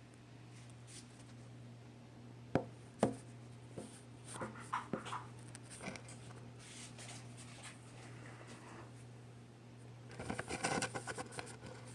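Handling noises: two sharp knocks about two and a half and three seconds in, then scattered light clicks and scrapes, and a burst of rustling and scraping near the end, over a steady low hum.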